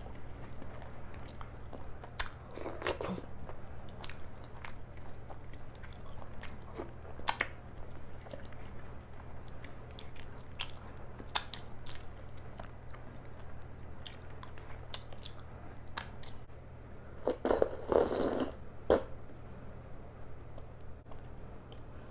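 Close-miked chewing and mouth sounds of a person eating food picked up by hand, with scattered sharp clicks, over a steady low hum. A louder flurry of sounds comes a few seconds before the end.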